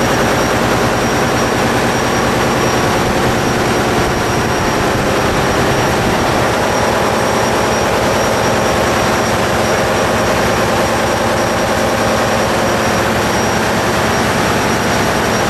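A large marine diesel engine in a ship's engine room, running loudly and steadily with a fast, even pulse.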